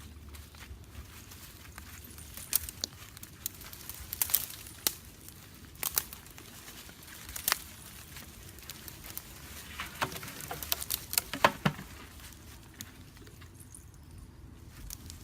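Scattered sharp clicks and taps at irregular intervals, bunching into a quick run about ten to twelve seconds in.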